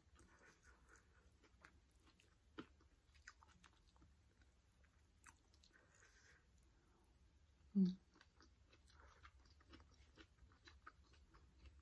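A person chewing food close to the microphone, with faint wet mouth clicks and smacks throughout, and one short, much louder low thump about eight seconds in.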